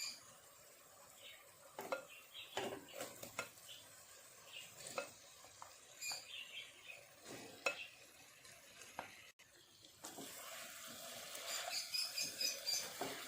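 Food sizzling in a frying pan while a utensil stirs, scrapes and taps against the pan many times. The sizzle grows steadier and fuller about ten seconds in.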